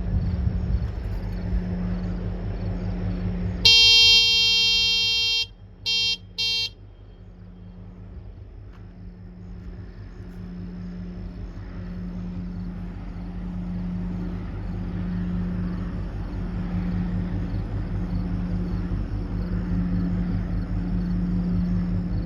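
A loud horn blown once long and then twice short, a long-two-short salute signal calling on a passing ship to answer, which it does not. A steady low engine drone runs underneath.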